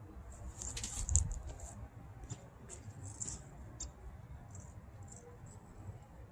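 Rubber window seal squeaking and rubbing against the glass and body as a Chevy Nomad quarter window is pressed into its frame, with scattered short squeaks and clicks that are busiest and loudest about a second in.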